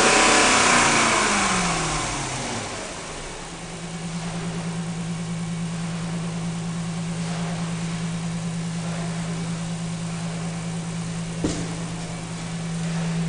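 2005 Dodge Durango's 5.7 L Hemi V8 coming down from a rev, its pitch falling over the first three seconds or so, then settling into a steady idle. A single short click comes near the end.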